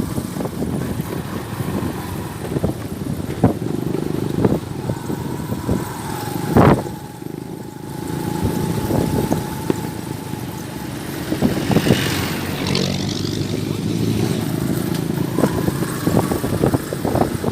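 Motor vehicle running along a road with a steady engine tone and frequent rattles and knocks. A loud thud comes about six and a half seconds in.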